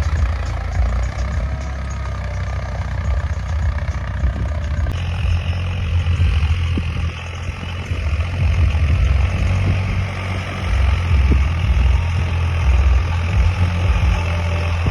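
Tractor diesel engine running steadily, with a low rumble. The sound changes abruptly about five seconds in, when a higher hiss joins it.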